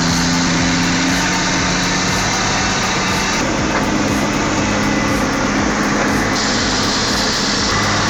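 Heavy truck engine running hard and steady under load as the truck climbs a slippery hill.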